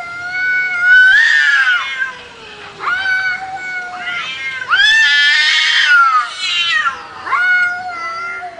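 A cat yowling in four long, drawn-out meows, one after another with short pauses between them.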